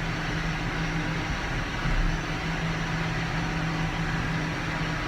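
Tractor engine running steadily under load while pulling a round baler, with a constant hum.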